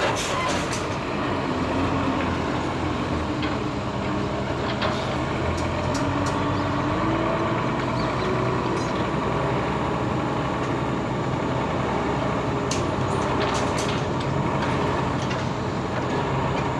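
Diesel engines of heavy earthmoving machinery running steadily, their pitch drifting a little up and down. Sharp metallic clanks come now and then.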